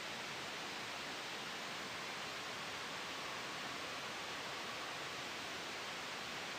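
Steady synthetic white noise with a soft, wind-like hiss, even and unchanging, strongest in the upper middle range.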